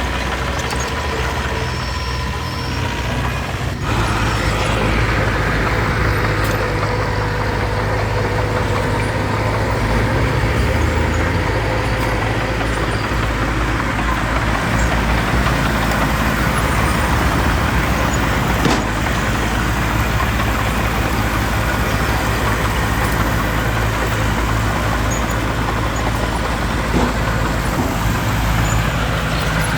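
Diesel engines of earthmoving machinery working a fill site, running steadily and growing louder about four seconds in, with one short click about halfway through.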